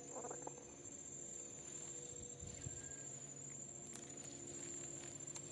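Insects chirring steadily as one unbroken high-pitched drone, with a faint steady low hum beneath it.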